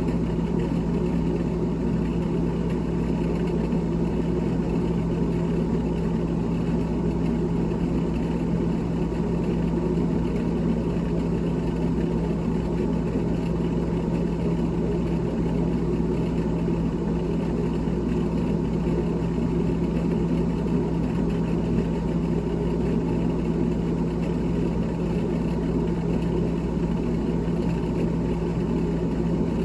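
A GE GTH18XCTZRBB refrigerator's fan running with a steady, even hum and a clear low pitch that does not change.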